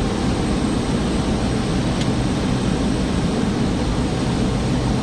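Steady drone of a small propeller airliner's engine and propeller heard from inside the passenger cabin in cruise.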